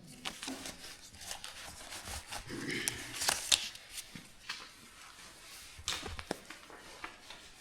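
Paper rustling with scattered small clicks: banknotes and a ticket being handled as the entry fee is paid.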